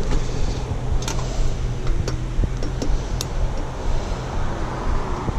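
Honeybees buzzing in a dense cloud around the microphone: a steady hum, with single bees passing close in short rising and falling whines and a few sharp ticks.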